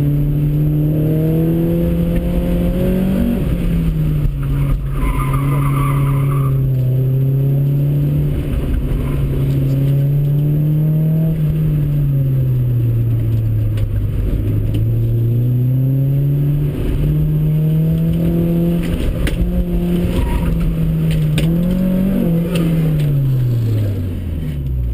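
Car engine on an autocross run, its revs rising and falling again and again through the corners and straights. About five seconds in there is a brief high tire squeal. Near the end the revs climb once more, then drop steeply as the car slows.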